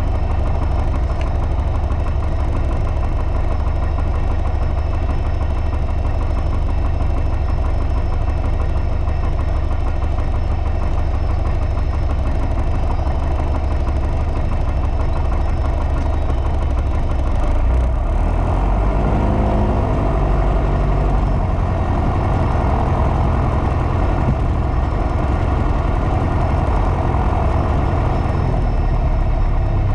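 Piper PA-28's piston engine and propeller heard from inside the cockpit, running steadily at low power; about eighteen seconds in the power comes up and the sound grows louder and brighter, as for the takeoff run.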